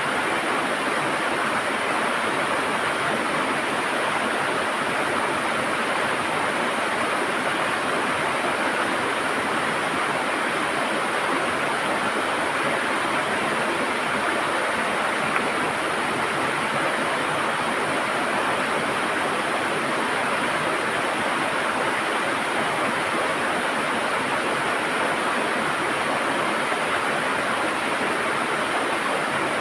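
River water rushing and gurgling over rocks, a steady, even flow with no change.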